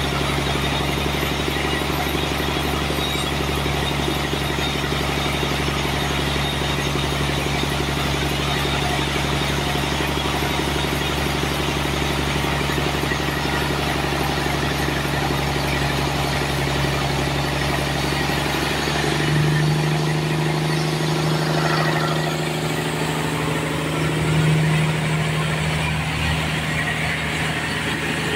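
Sawmill running with a steady mechanical drone. About two-thirds of the way through, the tone shifts and the deepest hum drops away.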